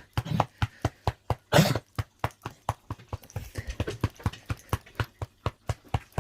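Cupped hands clapping rhythmically on a dog's chest (coupage), about four to five slaps a second, hitting hard to vibrate mucus out of the lungs during an asthma flare. One louder hissing burst breaks in about a second and a half in.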